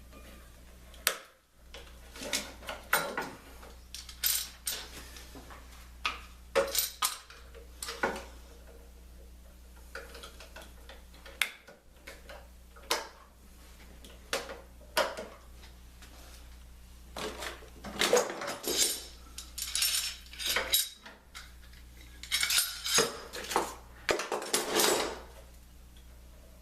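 Metal workshop tools clinking and clattering as they are handled, in scattered sharp clicks and short rattles that grow busier about two-thirds of the way in, over a steady low hum.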